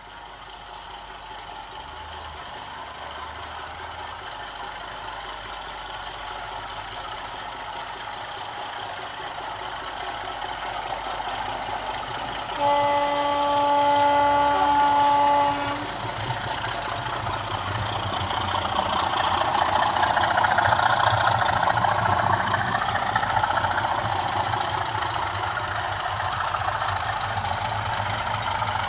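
DCC sound of an OO gauge model Class 24 diesel locomotive, its engine running and gradually building up. About halfway through, its horn sounds one steady note held for about three seconds, followed by louder running.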